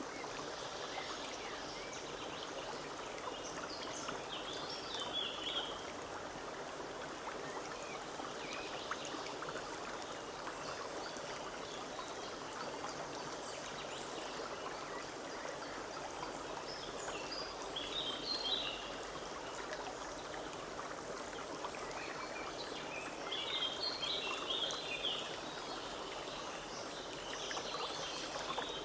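Forest stream babbling and rushing steadily over stones. Birds chirp briefly now and then, several times, most busily about two-thirds of the way in.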